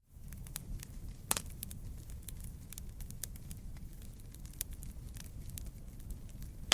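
Wood fire crackling: many small ticks and a few sharp pops, the loudest about a second in and another at the very end, over a steady low rumble of the flames. The sound fades up from silence at the start.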